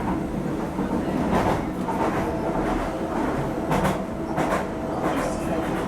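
Docklands Light Railway train running, heard from inside the carriage: a steady rumble of wheels on rail with several sharp clacks, and a thin steady whine that comes in about two seconds in.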